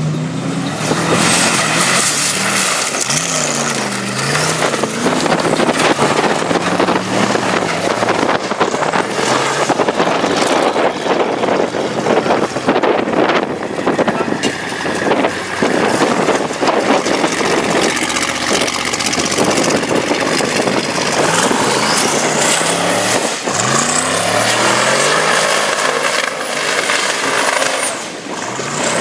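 Custom twin-turbo Ford race engine of a 1600 hp off-road truck, run hard at high revs. The engine pitch rises and falls repeatedly, then climbs again near the end.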